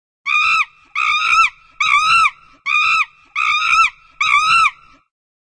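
An animal crying out six times in a steady rhythm, each call a loud, high-pitched cry of about half a second that rises and falls slightly in pitch.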